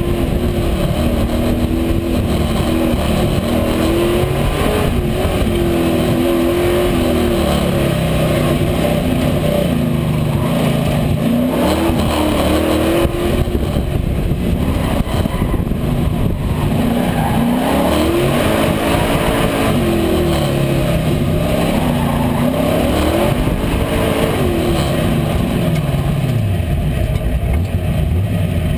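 A 357 small-block Chevy V8 in a 1947 Chevy pickup, heard close up from the hood, revving up and down again and again as the truck accelerates and lifts through an autocross course.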